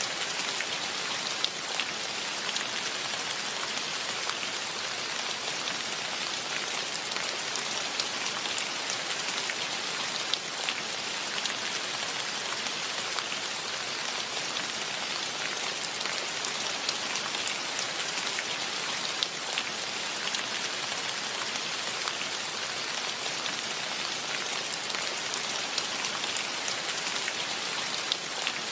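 Steady rain falling, with single drops tapping close by now and then.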